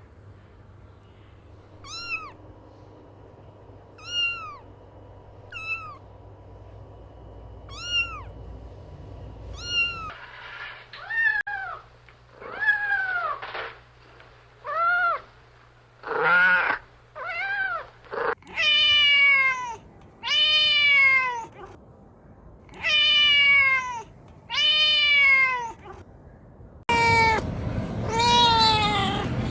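Cats meowing: short, high mews about every two seconds, then from about ten seconds in longer, louder meows in quick succession, each falling in pitch.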